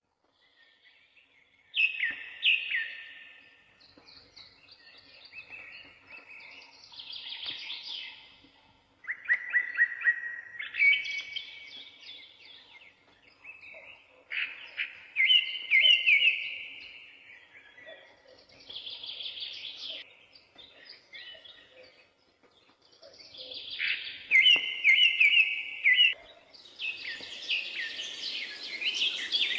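Songbirds singing in short, repeated chirping phrases, bout after bout with pauses of a second or two between them; near the end a denser, steady high chirring joins in.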